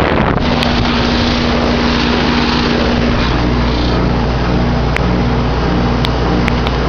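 Goodman packaged heat pump running steadily in cooling mode: a low compressor hum with several steady tones under the rushing of the condenser fan's airflow, heard from on top of the unit.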